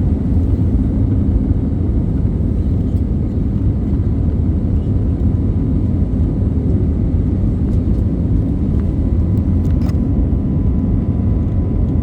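Airliner cabin noise: a steady, even rumble of engine and airflow heard from inside the passenger cabin, with a faint steady hum over it. A single light click sounds near the end.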